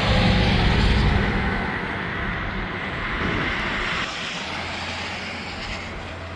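A heavy truck passing close by on the interstate: engine drone and tyre roar are loud for the first second or so, then fade away as it goes. A second vehicle's low steady hum rises about four and a half seconds in.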